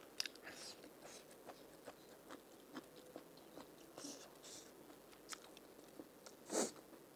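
Close-up chewing and biting of a fried bamboo-shoot samosa: scattered soft crunches and mouth clicks, with one louder crunch near the end.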